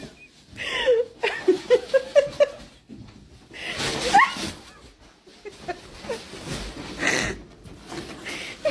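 A person laughing in a quick run of short bursts, among other short voice sounds.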